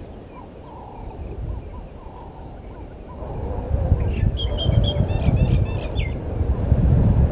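A bird calls about four seconds in: a quick run of short, repeated harsh notes lasting about two seconds. Under it, a low rumbling noise swells from about three seconds in.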